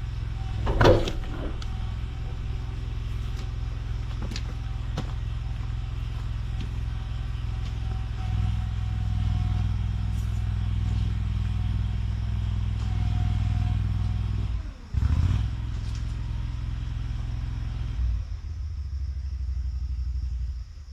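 Tractor engine running at a steady idle, with a few knocks in the first seconds and a brief dip about 15 seconds in. The engine sound falls away at the very end.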